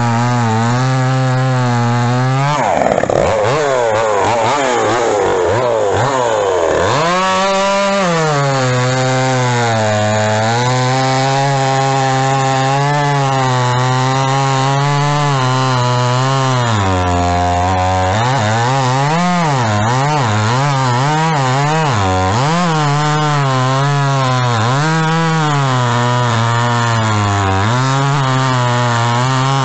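Pinkway two-stroke gas chainsaw with a 24-inch NeoTec bar and chain, running at high revs while cutting wood. The engine note sags under load from about the third to the seventh second, dips again briefly past halfway, and wavers up and down through the last third as the chain works through the cut.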